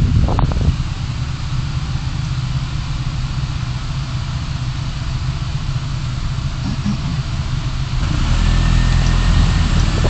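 Car engine running at a low steady rumble, as if idling, growing louder about eight seconds in as the car pulls away.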